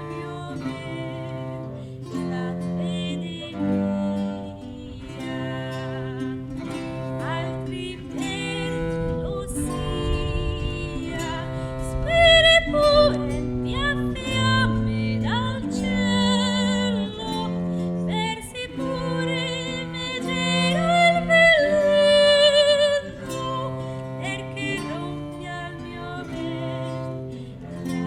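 Early Italian music played live by a small acoustic ensemble: plucked strings over a stepping bass line of held notes, with a melody line that wavers in pitch.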